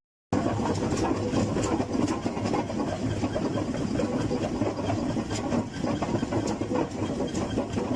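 Truck engine running steadily, with scattered light clicks and rattles over it.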